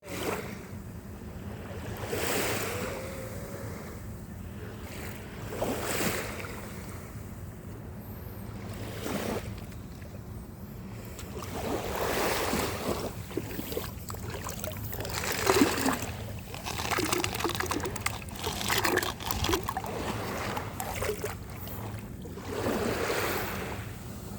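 Small waves washing onto a beach, a swell of surf every three to four seconds, with a busier stretch of fizzing and crackling around the middle. A steady low hum runs underneath.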